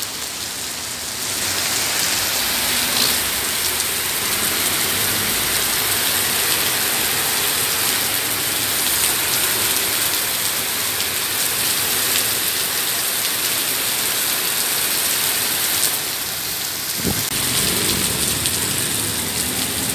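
Heavy rain pouring down, a steady dense hiss with fine spattering on hard surfaces.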